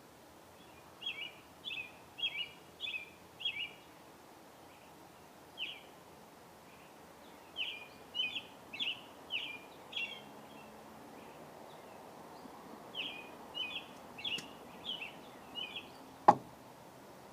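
Small birds chirping: short, sharp chirps repeated in bunches of several notes, with pauses of a second or more between bunches. A single sharp knock near the end is louder than the birds.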